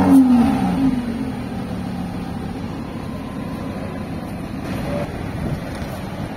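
Lamborghini Huracán Spyder's V10 just after starting. It settles from its start-up flare, its pitch easing down over the first second, into a steady fast idle.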